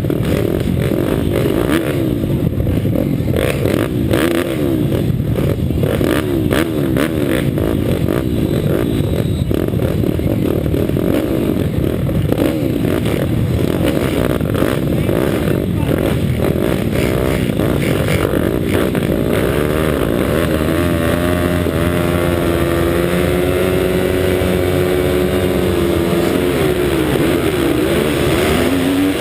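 Bucci Moto pitbike's 190 cc Daytona Anima four-stroke single-cylinder engine revving hard, its pitch rising and falling again and again. About two-thirds of the way through it settles into a steadier, held note.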